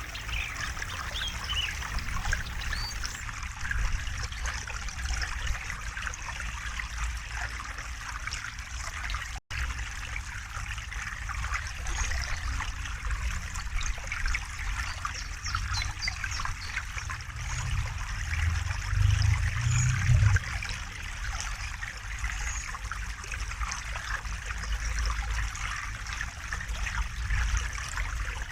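River water flowing and trickling over stones, a steady rush dotted with small splashes over a low rumble. The rumble swells louder for a couple of seconds about two-thirds of the way in, and the sound cuts out for an instant about a third of the way in.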